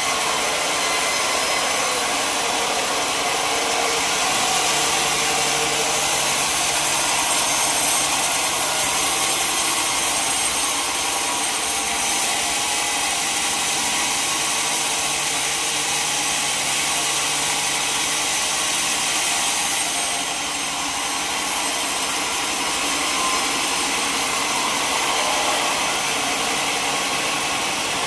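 Sawmill blade cutting through a log, with steady machine noise from the mill's motor, dipping briefly about two-thirds of the way through.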